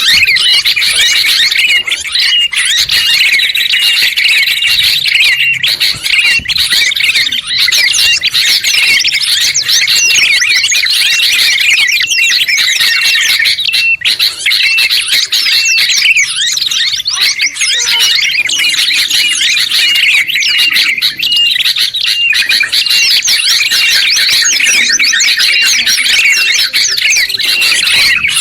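Dense chorus of small songbirds, including sooty-headed and yellow-vented bulbuls, white-eyes and a prinia, chirping, trilling and whistling over one another without a break. Short hooked notes repeat at a steady pace throughout.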